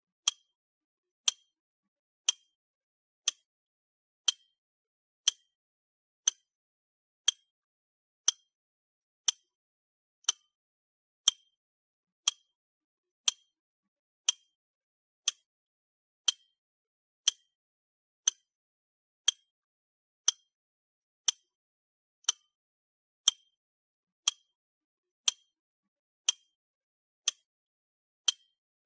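Clock ticking, one sharp tick a second, with dead silence between the ticks.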